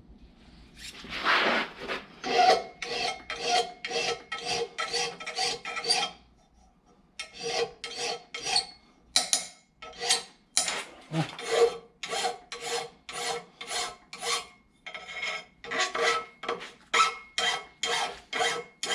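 Rhythmic back-and-forth strokes of a hand tool across steel bolt ends, about two to three strokes a second with a ringing metallic tone, trimming off the excess threads. It stops briefly twice.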